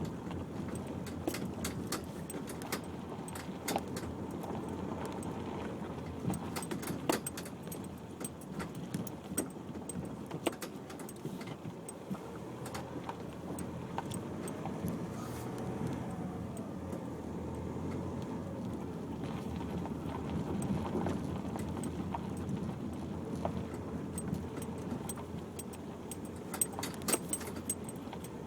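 Nissan X-Trail driving along a rough unsurfaced green lane, heard from inside the cabin: a steady low rumble of engine and tyres with frequent small rattles and clicks as the car jolts over the ground.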